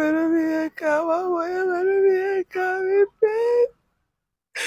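A woman wailing in grief, a sung lament of long, drawn-out cries with a wavering pitch, in four phrases that break off about a second before the end.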